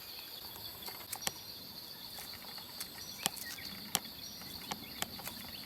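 Steady high-pitched drone of forest insects, crickets or cicadas, with a few scattered sharp clicks and taps.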